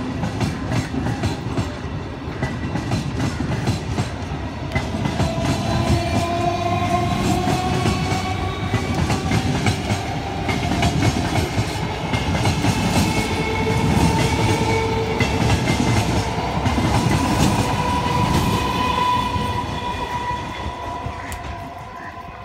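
Electric multiple unit (EMU) local train running past as it pulls away from a station: a heavy rumble with rapid clicks of the wheels over rail joints, and an electric whine that rises slowly as the train picks up speed. The sound drops off near the end.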